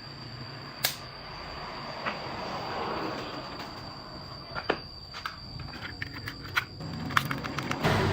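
Scattered sharp clicks and knocks, coming thicker toward the end, over a steady high insect trill.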